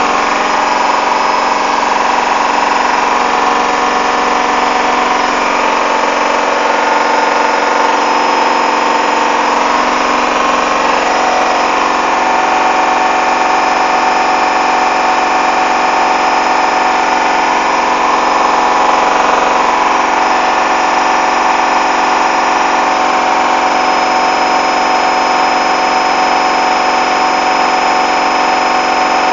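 Hoover washing machine on its final spin: a loud, steady motor whine with drum noise, drifting slowly in pitch. The load is badly unbalanced, and the machine struggles to spin.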